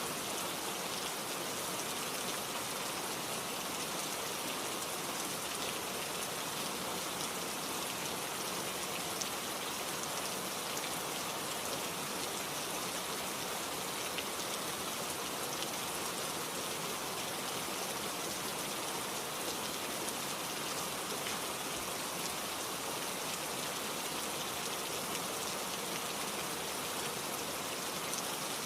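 Steady rain, an even hiss with the patter of single drops.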